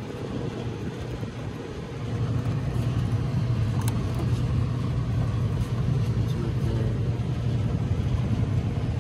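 Steady low mechanical rumble and hum, getting louder about two seconds in, with a few faint ticks.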